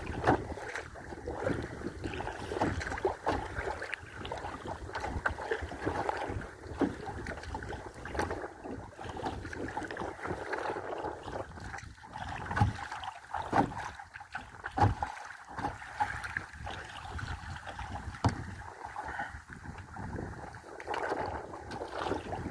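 Wind rumbling on the microphone over water lapping and slapping against a kayak, with irregular sharp splashes.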